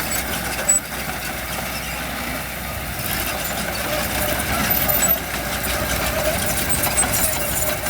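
Diesel engine of heavy construction machinery running steadily, with a few brief knocks.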